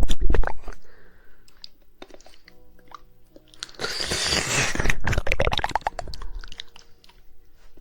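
ASMR mouth sounds close to the microphone: quick wet tongue clicks, a cluster at the start, then scattered clicks, and a denser stretch of wet mouth noise with rapid clicking about four to five seconds in.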